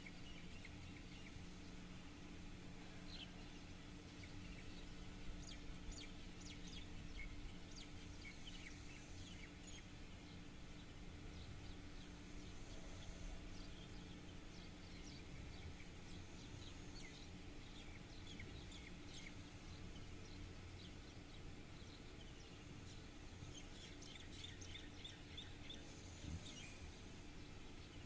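Faint bird chirps, scattered and coming in small clusters a few seconds in and again near the end, over a steady low hum and rumble.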